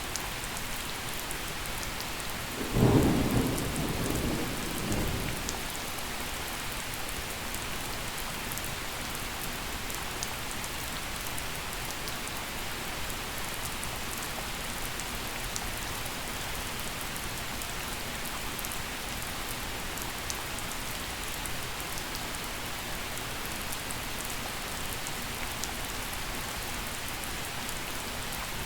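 Steady gentle rain falling, with scattered drop ticks, and one clap of thunder about three seconds in that rumbles for a couple of seconds and fades.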